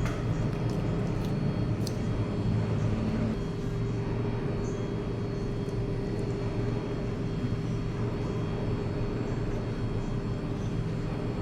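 Steady low mechanical rumble with a faint hum, and a few light clicks about two seconds in.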